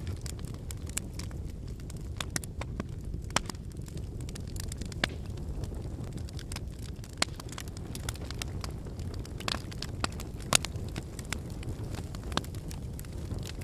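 Wood campfire burning: a steady low rush of flames with irregular sharp crackles and pops from the burning firewood, the loudest pop about ten and a half seconds in.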